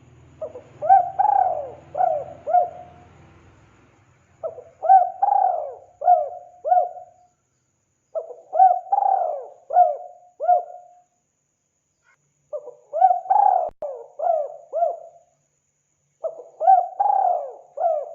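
Spotted dove (tekukur) cooing: five repeated call phrases, each a quick run of four or five arched coos lasting about three seconds, with a gap of a second or so between phrases.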